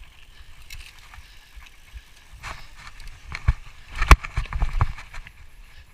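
Irregular thumps and knocks, sparse at first and then clustering in the second half, with one sharp knock about four seconds in standing out as the loudest.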